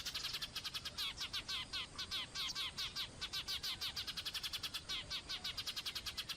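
A small bird chirping rapidly and without a break, about eight short chirps a second.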